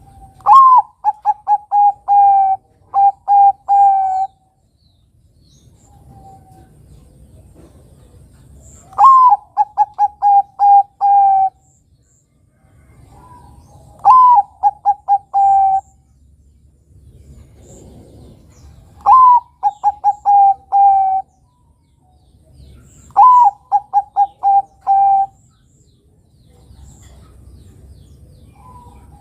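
Zebra dove (Bangkok-type perkutut) cooing: five song phrases a few seconds apart, each opening with a rising note followed by a quick run of short, even coos.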